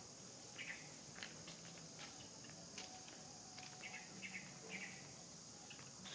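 Faint outdoor ambience: a steady high buzz of insects, with a few short chirps and light clicks scattered through it.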